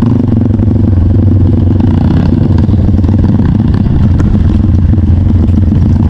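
Trail motorcycle engine running at a steady speed, loud and close, as heard riding on the bike.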